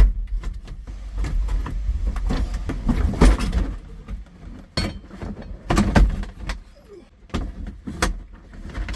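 Irregular knocks and clunks with rumbling handling noise on the microphone as the camera is moved about, with nobody speaking.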